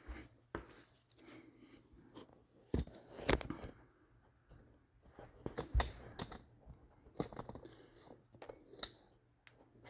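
Scattered clicks, knocks and rustling from the camera being handled and a person shifting about on the ground under a car, with a few sharper knocks about three, six, seven and nine seconds in.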